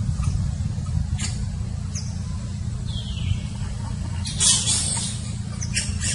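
Monkey giving short, high-pitched squeaks and squeals, one dropping in pitch about three seconds in and a louder cry at about four and a half seconds, over a steady low rumble.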